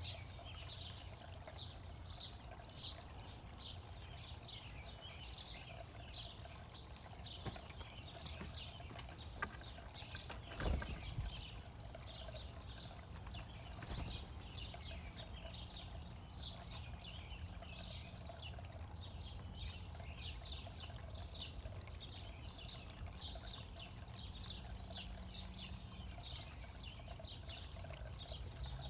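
Birds chirping in quick, short, repeated calls over a low steady rumble, with a single knock about ten seconds in.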